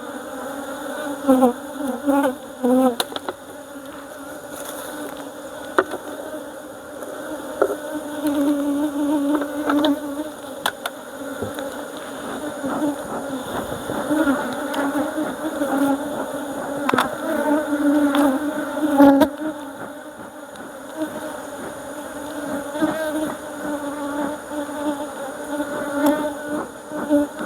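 Honeybees buzzing steadily around an opened hive during an inspection, the hum swelling and fading, with a few light knocks. The beekeeper judges the colony weak and unhealthy, with mites present.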